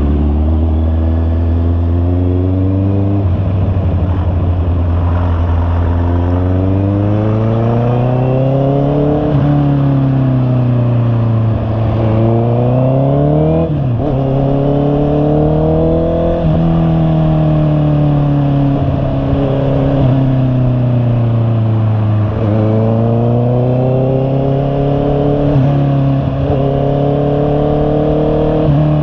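Honda CB650R's inline four-cylinder engine under way, its pitch climbing through the revs and dropping sharply several times at gear changes, with easing off between.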